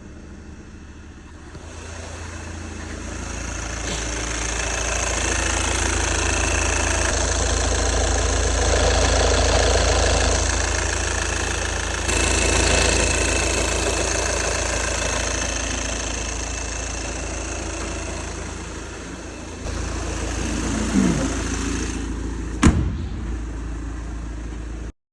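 Car engine running steadily with a deep rumble, swelling over the first few seconds; a sharp click near the end.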